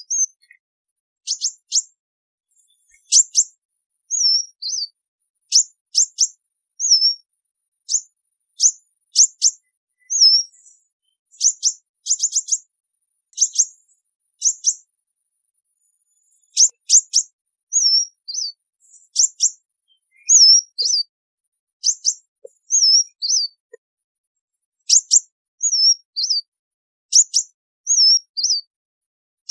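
Sunbird giving its flock-calling call: short, high, sharp chips and thin wavy notes, repeated in quick clusters about once a second, with a brief pause about halfway through.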